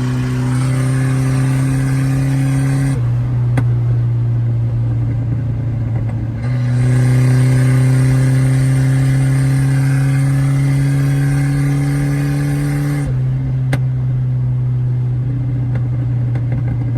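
Motor vehicle engine running steadily with a deep, even drone. The tone turns fuller twice, near the start and again about six seconds in, and its pitch creeps slowly up before it eases off about thirteen seconds in.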